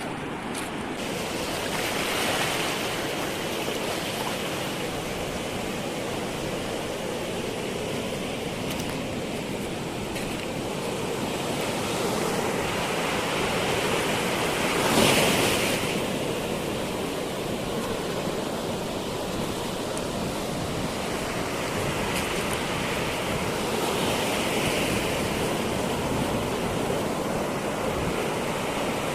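Sea surf: waves breaking and washing up the shore in slow swells, the loudest wave breaking about halfway through.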